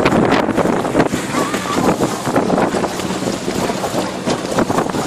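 Tractor engine running steadily while the barrel-ride carriages it pulls rattle and clatter along, with wind buffeting the microphone.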